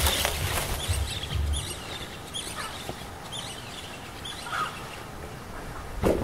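Birds chirping in short calls, with the bass beat of a music track dying away in the first second and a half. A louder call starts right at the end, as a chicken begins to cluck.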